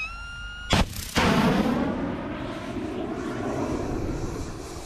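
Shoulder-fired anti-aircraft missile launch: a steady high seeker tone, then a sharp pop as the missile is ejected, followed about half a second later by the loud rocket motor igniting and trailing off.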